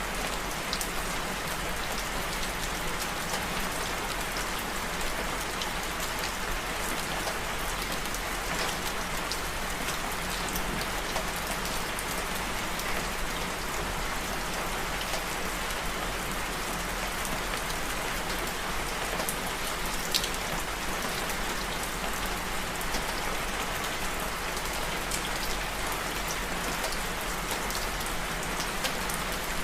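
Steady rain falling, an even hiss with many small drops ticking and an occasional louder drop striking a surface.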